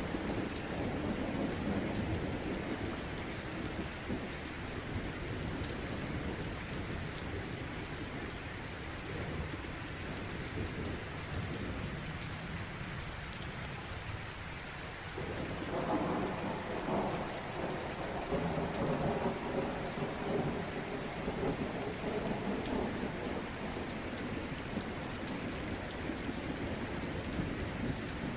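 Steady rain, with faint scattered crackles from a fireplace. About halfway through, thunder rolls in and keeps rumbling, loudest in the low range.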